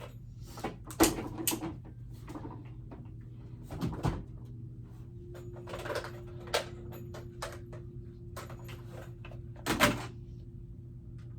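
Irregular knocks, clicks and clatter of toys and household objects being handled and set down while a room is tidied, the loudest knocks about a second in, at about four seconds and near the end, over a steady low hum.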